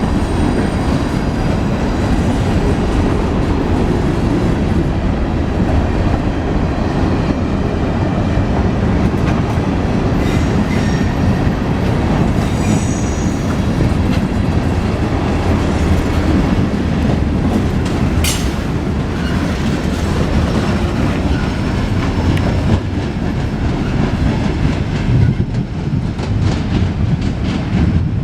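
Norfolk Southern freight train rolling steadily past, a continuous rumble with wheels clacking over the rail joints. Faint high wheel squeals come in around the middle, and a single sharp high click sounds about eighteen seconds in.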